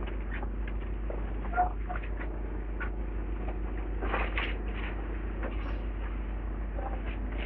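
Demolition work heard from a distance: a machine's engine running steadily under scattered knocks, clatters and scrapes of rubble, with a few louder clatters about four seconds in.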